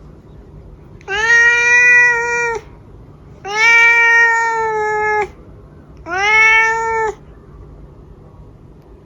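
Domestic cat meowing three times in long, drawn-out calls, each holding a steady pitch after a short rise; the second is the longest.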